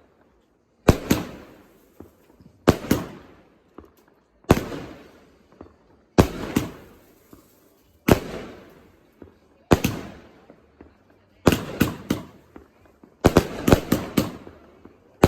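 Fireworks going off in a display: loud bangs of bursting shells about every two seconds, often in pairs, each trailing off in a fading echo. The bangs come faster and closer together near the end.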